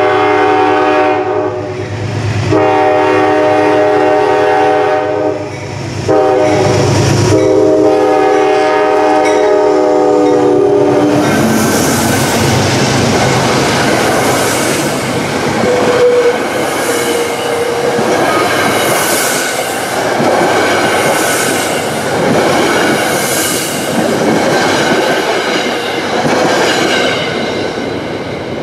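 Metro-North GE Genesis P32AC-DM diesel locomotive's horn blowing the grade-crossing signal: long, long, short, long, with the last blast held. Then the train passes close by, its passenger coaches' wheels clacking and rumbling in a rush that swells about every two seconds.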